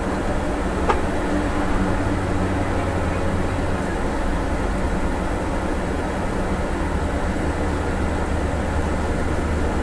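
Scania diesel engine running steadily at low revs, heard from the driver's seat. A single light click about a second in.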